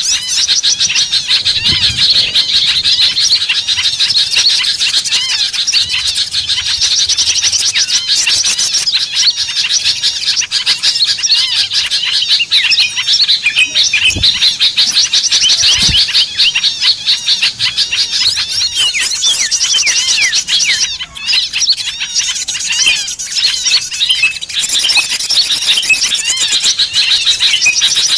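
Dense, unbroken chatter of many small songbirds calling at once, rapid high chirps and trills overlapping: a bird-lure (pikat) recording of noisy small birds used to attract wild birds.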